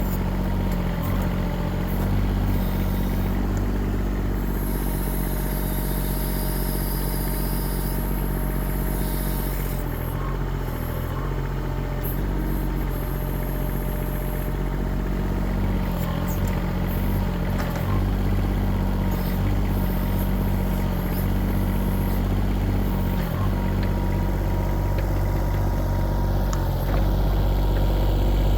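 Kubota diesel engine of a 1.6-ton mini excavator running steadily, its low note shifting a few times as the engine load changes.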